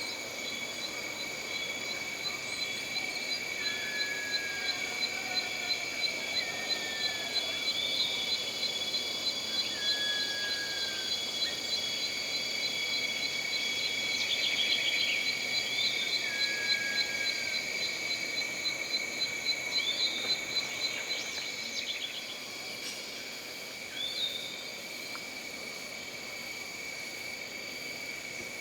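Jungle ambience: insects trilling steadily at several high pitches, with a regular pulsing call that stops about three-quarters of the way through. Short falling whistles and chirps from calling animals come and go over the trills.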